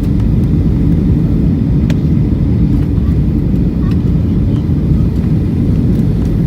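Boeing 757-200 airliner heard from inside the cabin: a steady, loud low rumble of engine and airflow noise, with a few faint ticks.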